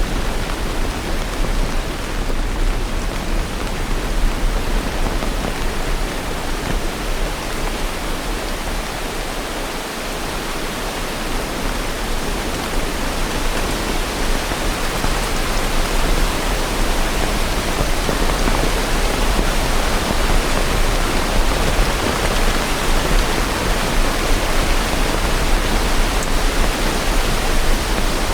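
Steady rain, a dense, even hiss with no separate drops standing out, easing slightly for a moment partway through.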